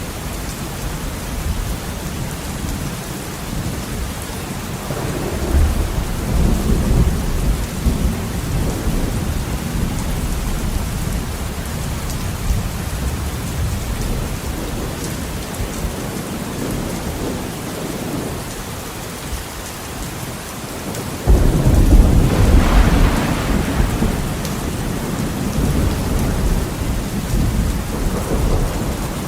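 Heavy rain beating on a window, a steady hiss, with thunder rolling through: a rumble swells about five seconds in, and about twenty-one seconds in a sudden loud thunderclap breaks and rumbles on for several seconds.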